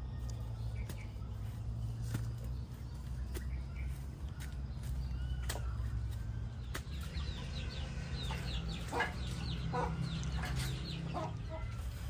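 Birds calling, likely farmyard fowl: a run of short repeated chirps and several short clucks in the second half, over a steady low hum and scattered clicks.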